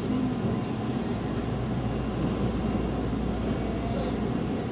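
Running noise inside a JR 373 series electric train in motion: a steady low rumble of wheels on the track with an even hiss over it.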